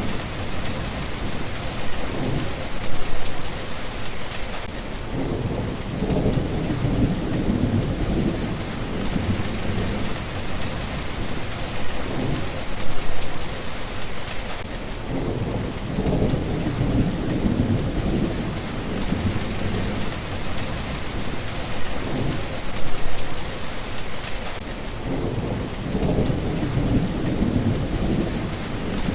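Steady rain with wind, and low thunder rumbling in rolling swells that come back about every ten seconds.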